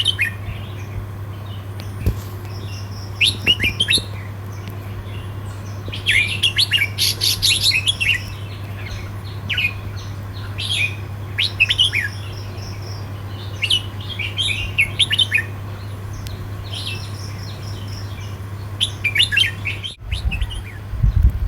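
Red-whiskered bulbuls singing short, quick chirping phrases in repeated bursts with gaps of a second or more, over a steady low hum.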